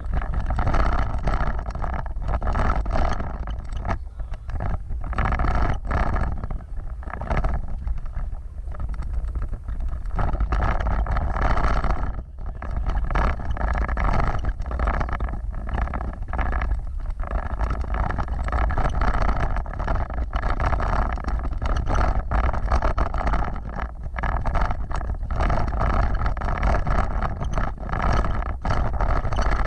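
Off-road vehicle driving, its engine running steadily, with frequent short knocks and jolts and wind on the microphone.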